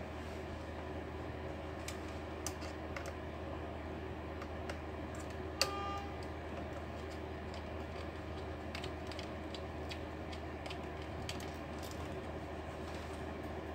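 Small scattered clicks and taps of tools and plastic laptop parts being handled, with one sharper metallic tap that rings briefly about five and a half seconds in, over a steady low hum.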